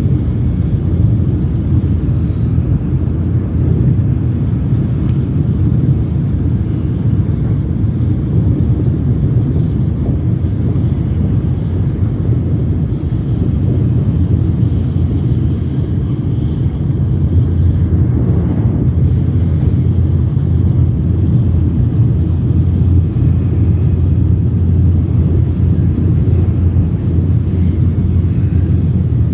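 Shinkansen bullet train running at speed: a steady low rumble.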